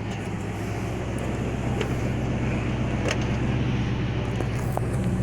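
Ford F250 Super Duty's 5.4-litre Triton gas V8 idling steadily, with a few faint ticks.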